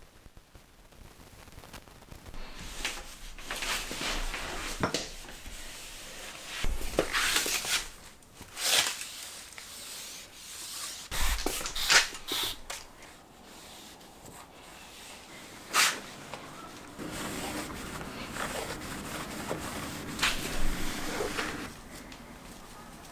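Window sill and frame being scrubbed and wiped by hand: irregular rubbing and scraping strokes with a few sharp knocks, the loudest about 12 s and 16 s in.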